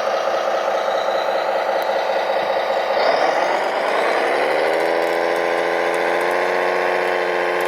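RC truck's engine sound running with a rattly note, then dropping in pitch about three seconds in and settling to a steady idle.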